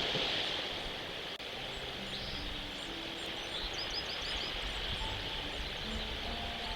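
Outdoor ambience on a nest-camera microphone: a steady low rumble and hiss, with scattered high bird chirps and a quick run of about five short notes about four seconds in.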